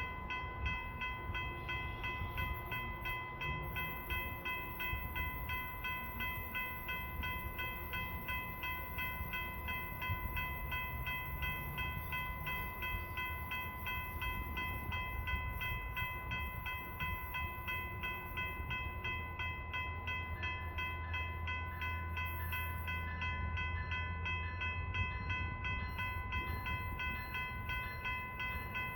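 Grade-crossing warning bell ringing rapidly and evenly. A low rumble from a Silverliner V electric commuter train swells in the last third.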